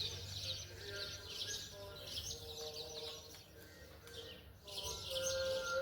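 Many small birds chirping and twittering continuously, with faint held tones lower down underneath.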